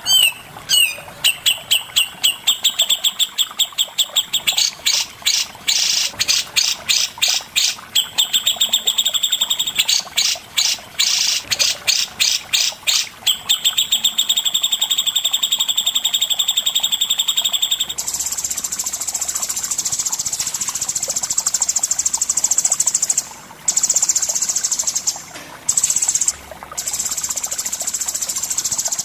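Songbird training song: fast runs of sharp repeated high notes alternating with long, even high trills. About two-thirds of the way in it gives way to a continuous high insect-like buzz, broken briefly a few times near the end.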